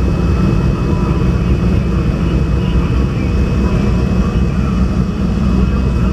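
Motorcycle engines running, a steady low rumble with no pauses.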